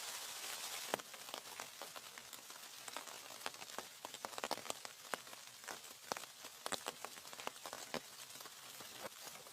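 Steady rain hiss that cuts off abruptly about a second in, giving way to irregular drips and light taps of rainwater.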